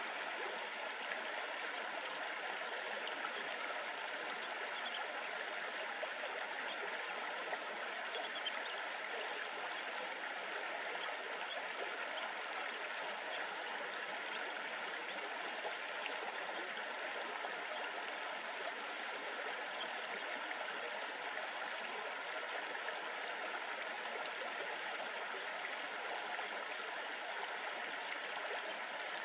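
A river's shallow water babbling and murmuring steadily.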